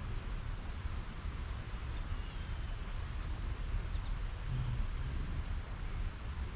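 Outdoor ambience: small birds chirping in a few short, quick series, over a steady low background noise.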